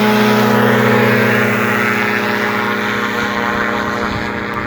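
Powered parachute's engine and propeller running at full power for takeoff, a loud steady drone that fades gradually from about a second and a half in as the craft moves away.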